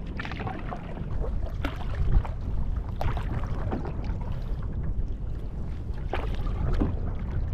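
Strong headwind buffeting the microphone with a low rumble while a canoe is paddled into it. Short water splashes and slaps from the paddle and chop against the hull come at irregular intervals.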